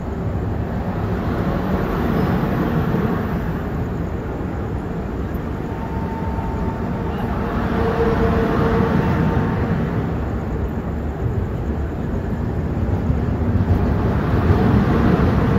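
Train moving along the tracks: a steady low rumble that rises and falls a little in level.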